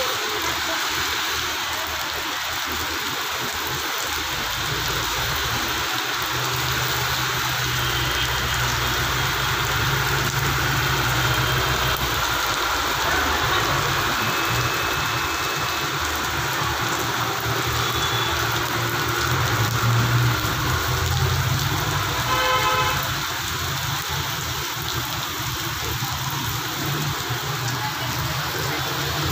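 Heavy rain pouring onto a flooded street and pavement, with traffic driving through the water. A heavy truck's engine runs low through the middle as it passes, and a short vehicle horn sounds about three-quarters of the way in.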